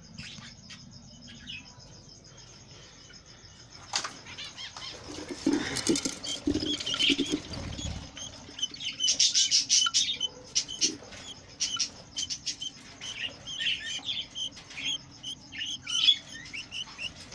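Budgerigars chirping, with a flurry of wing flapping. The chirps are sparse at first, then come thick and fast from about four seconds in.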